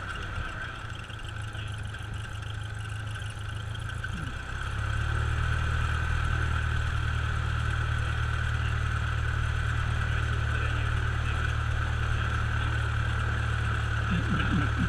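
Cessna light aircraft's piston engine running steadily at low power, then throttled up to a louder, steady higher power setting about four and a half seconds in.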